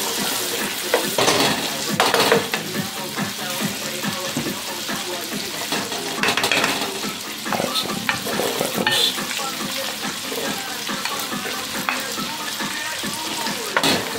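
Mushrooms, onions and scallion frying in butter in a pot, sizzling steadily, while a spoon stirs them and knocks and scrapes against the pot now and then.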